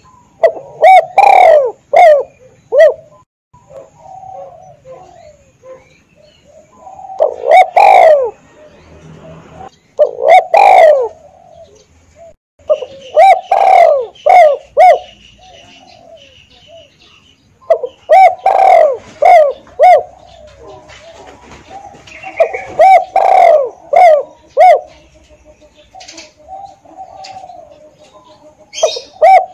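Spotted dove (tekukur) cooing loudly in repeated phrases of a few short coos, each phrase a second or two long and a few seconds apart.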